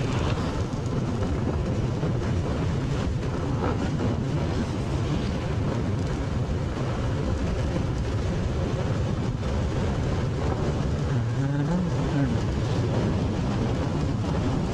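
Motorcycle being ridden on the road: steady engine and road noise throughout, with a short rising-and-falling tone about eleven seconds in.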